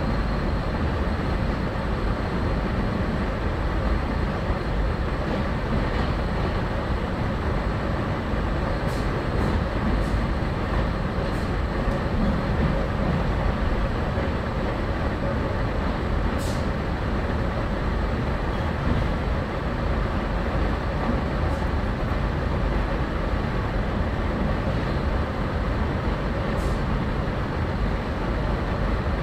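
Steady rumble and running noise inside a moving passenger train's carriage, with a few faint short clicks.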